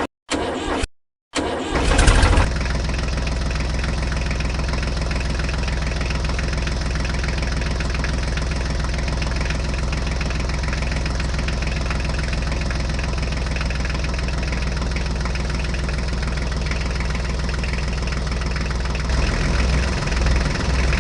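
Tractor engine starting: a few short bursts, then it catches about two seconds in and idles steadily with an even low rumble. The low end wavers slightly near the end.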